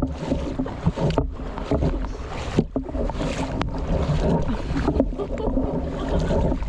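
Hiking boots wading through deep floodwater on a trail, sloshing and splashing with each uneven step.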